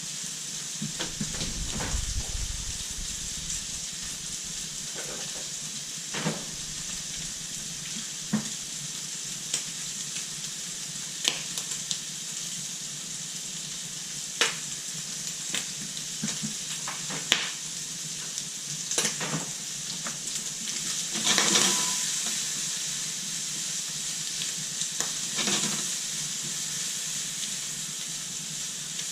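Food frying in a pan with a steady sizzle, and irregular knocks of a utensil stirring or turning it against the pan. The sizzling swells louder for a moment a little past the middle.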